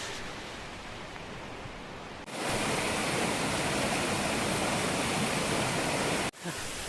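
Waterfall water rushing in a steady wash of noise, jumping louder a little over two seconds in and dropping back for a moment near the end.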